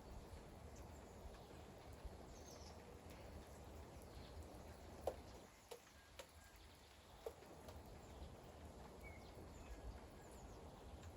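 Faint outdoor ambience of light rain, with two sharp drips about five and seven seconds in and a few faint bird chirps.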